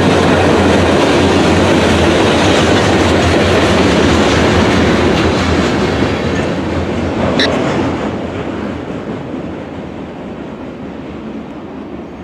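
Train rolling past close by, its wheels clattering over the rails. The noise fades away over the second half. A brief high-pitched squeal comes about seven seconds in.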